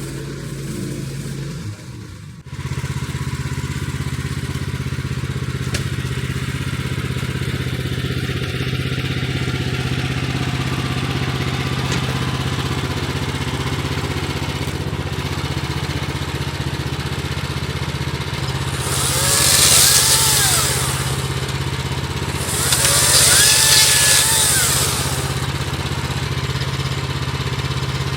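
Gas engine of a Woodland Mills HM130 Max portable bandsaw mill running steadily, dipping briefly about two seconds in. Twice in the latter half, a louder high hiss with a rising and falling whine rides over it for a couple of seconds.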